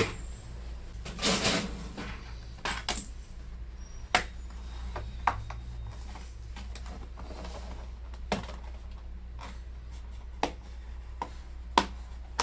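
Scattered sharp clicks, taps and short scrapes of a laptop's plastic bottom cover being pried off and handled, with small tools clinking, over a low steady hum.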